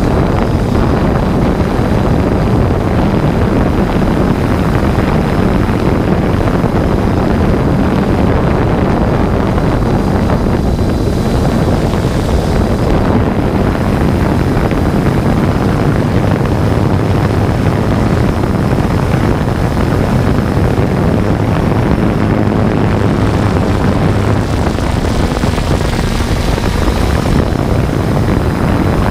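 3DR Solo quadcopter's propellers and motors running steadily, a loud even whir with a low hum underneath.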